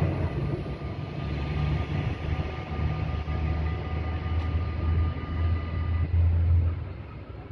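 A Talent diesel railcar running away from a level crossing, its low rumble fading, while the crossing's electronic bells ring steadily. The bell tones stop about six seconds in.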